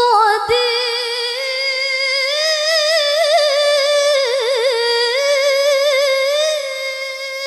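A woman's voice reciting the Quran in melodic qiroah style, holding one long high note with quick ornamental trills and wavering turns.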